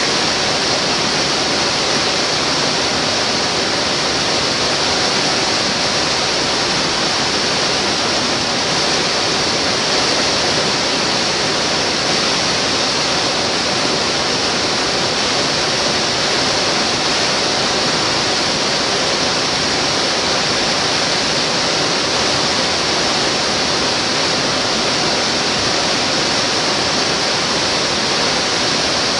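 Mountain waterfall rushing, a loud, steady, unbroken hiss of falling water.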